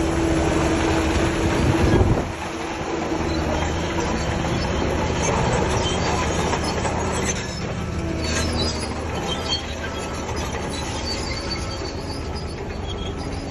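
Crawler bulldozer working: diesel engine running under load while its steel tracks clank and squeal. Louder for about the first two seconds, then it eases off.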